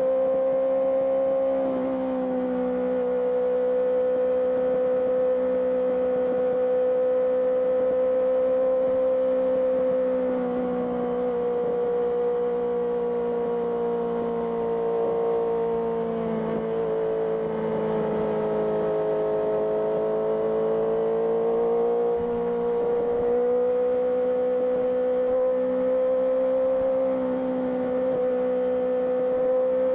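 Honda CBR650R's inline-four engine through an IXIL IXRACE aftermarket exhaust, running at a steady cruise with a held engine note. The pitch eases down a little about two-thirds of the way through and climbs back near the end.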